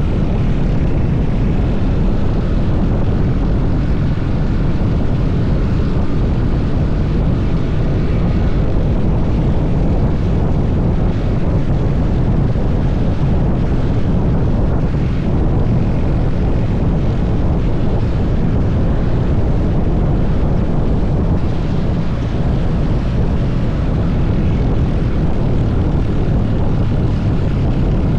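Motorcycle engine running steadily while riding, a loud continuous drone with no change in revs.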